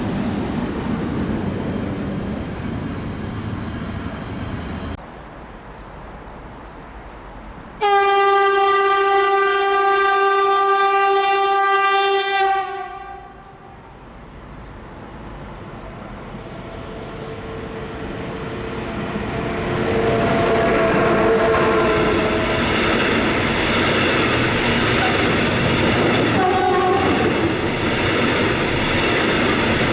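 A train horn sounds one long steady blast of about four and a half seconds. Then a train approaches and grows steadily louder, its wheels clattering over the rail joints.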